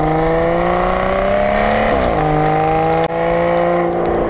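Mountain bike's rear freehub ratchet buzzing loudly while coasting, a whine whose pitch climbs slowly with speed, dips about two seconds in, then holds steady.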